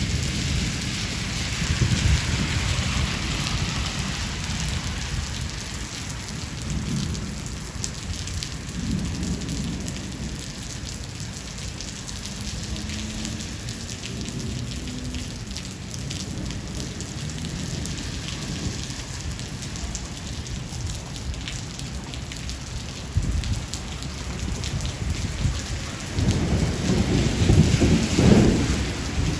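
Steady heavy rain falling, with rolling thunder rumbling low in the background. A louder roll of thunder builds near the end.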